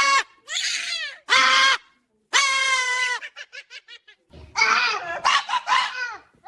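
Loud, high-pitched laughing and shrieking: several long drawn-out calls, a quick run of short 'ha' notes near the middle, then more shrieks.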